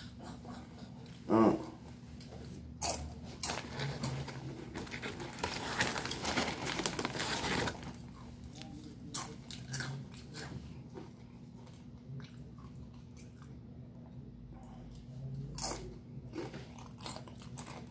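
A person crunching and chewing chips close to the microphone: scattered sharp crunches, and a dense stretch of crunching from about three and a half to seven and a half seconds in. A short vocal sound comes about a second and a half in.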